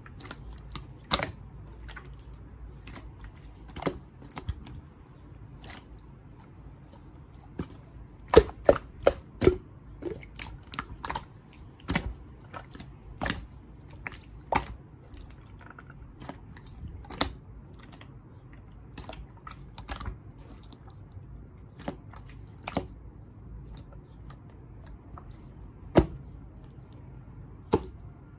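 A person eating: chewing, with irregular sharp clicks and taps every second or two and a small cluster of louder ones about a third of the way in.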